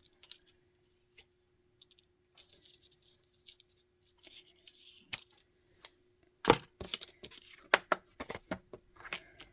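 Small handling noises from trimming thread with scissors and handling a button tag: scattered faint clicks, then a quick run of sharp clicks and taps from about six and a half seconds in, over a faint steady hum.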